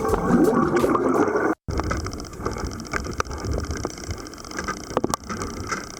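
Background music cuts off abruptly about a second and a half in. After it comes the muffled sound recorded by a camera underwater, a low rumble with a few sharp clicks.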